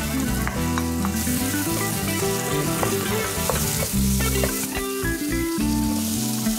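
Chopped onion and garlic sizzling in hot oil in a nonstick pan, stirred with a wooden spatula, with carrot slices tipped in near the end. Background music plays under the sizzle.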